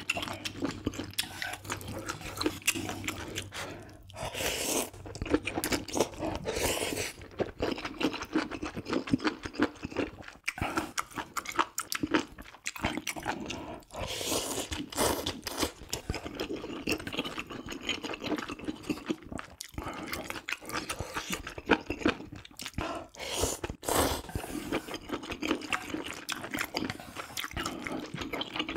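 A person eating close to the microphone: steady chewing with many crunchy bites and wet mouth sounds, from mouthfuls of spicy ramyeon with squid and kimchi.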